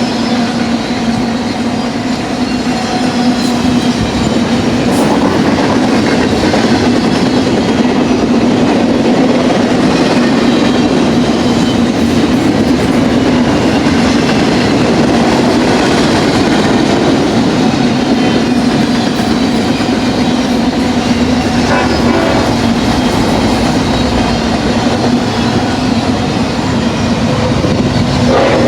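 BNSF double-stack container freight train rolling past close by, its wheels clattering steadily over the rail joints, with a constant low hum under the rumble.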